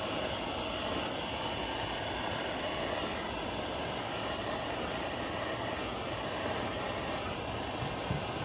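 Heat gun blowing steadily, a constant rushing hum with a thin high whine, used to soften vinyl wrap film on a car panel.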